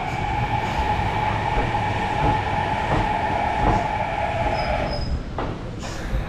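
Kintetsu limited express electric train rolling slowly along the platform as it slows, with a whine that slides slowly down in pitch and stops about five seconds in, over a low rumble of wheels on rail and a few clacks over rail joints.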